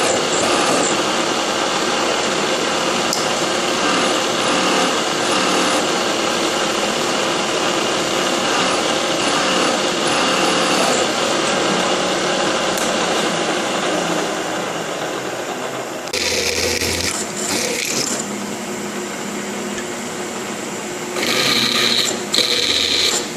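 Milling machine drilling holes in a steel plate: the steady noise of the spindle and bit cutting, which changes about two-thirds through into a quieter run broken by short, louder bursts.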